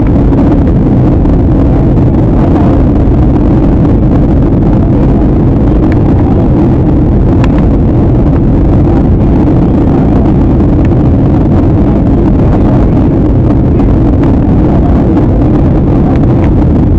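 Airliner cabin noise in flight: a steady, loud rush of engine and airflow noise, heaviest in the low range and unchanging throughout.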